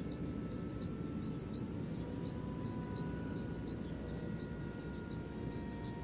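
A bird chirping over and over, about three or four quick chirps a second, over a steady low background rumble. Underneath, the faint thin whine of the radio-control model plane's motor drifts slowly in pitch.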